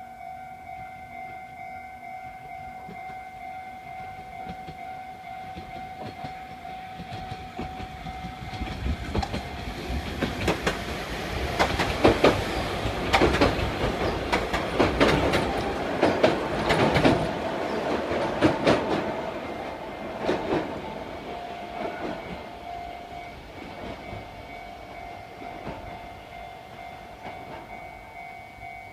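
A Sangi Railway Hokusei Line narrow-gauge train crossing a steel girder bridge. Its wheels clatter over the rail joints, building from about a third of the way in, loudest in the middle, then fading away. A level-crossing warning bell rings steadily throughout.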